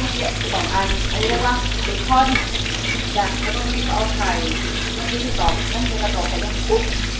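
Food frying in hot oil in a wok, sizzling steadily, while a spoon stirs through a pan of thick goulash.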